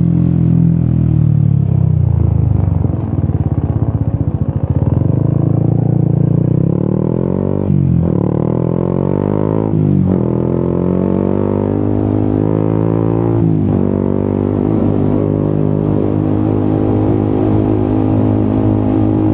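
Yamaha XSR 155's single-cylinder engine through an Akrapovic exhaust, riding. It putters at low revs early on, then the revs climb and drop sharply three times as the rider shifts up through the gears, and it settles into a steady cruise for the rest.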